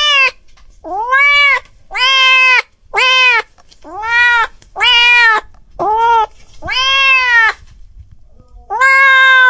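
A cat meowing over and over, about nine meows roughly a second apart, each rising and then falling in pitch. One meow about two-thirds of the way through is longer, and a pause of about a second comes before the last.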